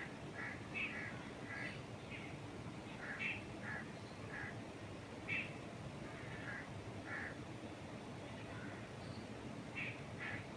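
Birds calling in a string of short, separate calls, with a pause of a couple of seconds before a few more near the end, over a steady low rush of wind moving through trees.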